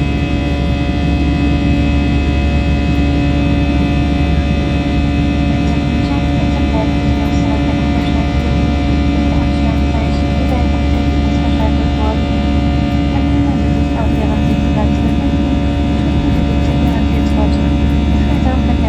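Airbus A321 cabin noise from a window seat: a steady, loud drone of the jet engines and airflow, with several constant tones over it.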